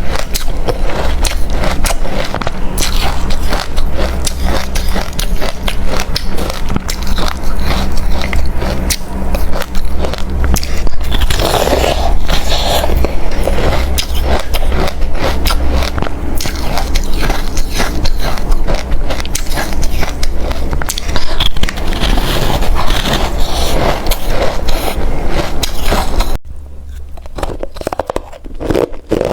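A person chewing hard, refrozen crushed ice close to the microphone, with dense, continuous crunching. Near the end the crunching suddenly becomes quieter and goes on.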